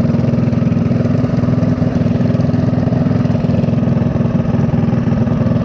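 Small single-cylinder four-stroke mini bike engine running steadily at an even speed.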